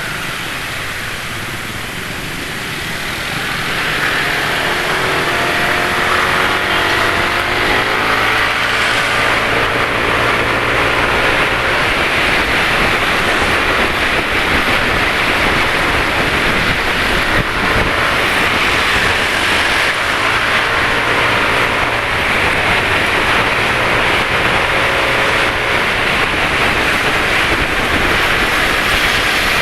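Road traffic heard while riding a motor scooter: a steady rush of wind and road noise that grows louder about three seconds in, with the engine notes of other motorcycles rising and falling in pitch as they pass.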